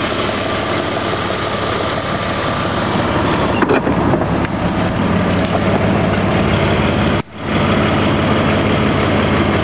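BMW E34 engine idling steadily through aftermarket Raceland exhaust headers, with a brief dropout about seven seconds in.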